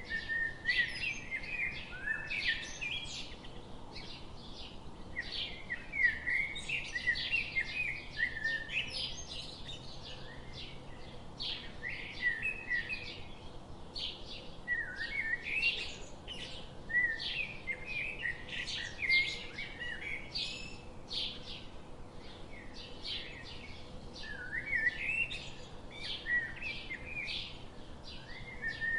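Several songbirds chirping and singing at once: many short high notes and quick rising and falling whistles overlapping in a dense chorus.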